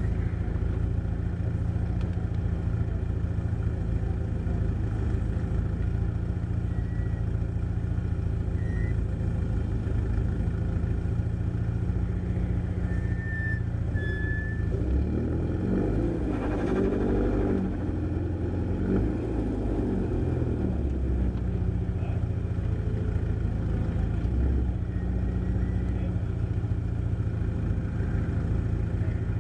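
Car engine idling steadily, heard from inside the cabin. About halfway through, a second engine revs up, its pitch rising and shifting for several seconds, as a car accelerates away.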